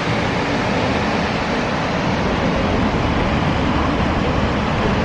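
Steady roar of Snoqualmie Falls, a large waterfall's water crashing down, heard as a loud, even rushing noise.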